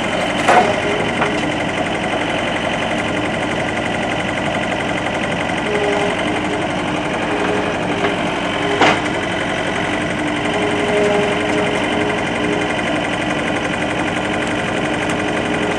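Skid steer engine running steadily under light load, its pitch shifting a little, with a single knock about nine seconds in.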